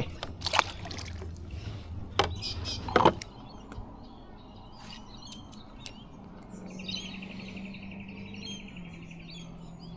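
Birds chirping, with a fast pulsing trill lasting about two seconds around two-thirds of the way through. A few sharp knocks come in the first three seconds.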